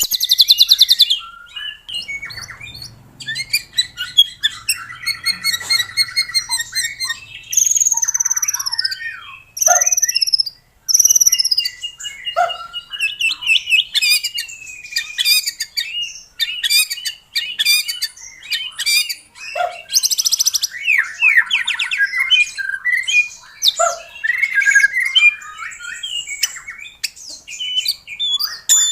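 White-rumped shama (murai batu) singing a long, varied song: clear arching whistles, rapid trills and harsh chattering notes, phrase after phrase with short pauses between.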